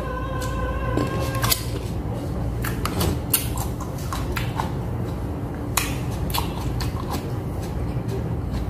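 A person chewing a cherry tomato, with scattered wet mouth clicks and smacks over a low steady hum.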